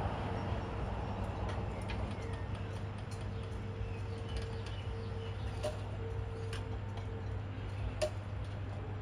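Waratah-type electric suburban train running away along the track, its sound fading to a steady low hum with a faint held tone. A few scattered sharp clicks, the loudest about eight seconds in.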